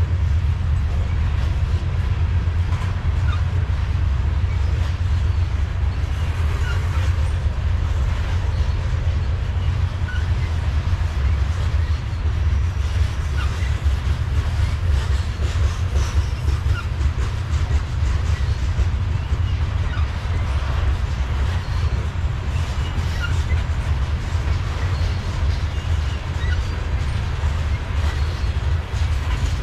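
A long BNSF freight train of covered hopper cars rolling past, a steady loud low rumble with faint scattered squeaks from the wheels.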